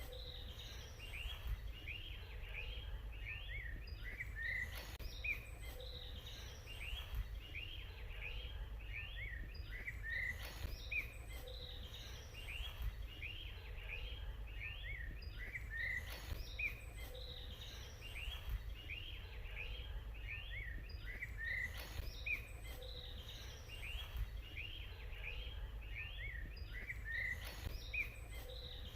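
Several small birds chirping and twittering in quick, overlapping short calls throughout, over a low steady rumble.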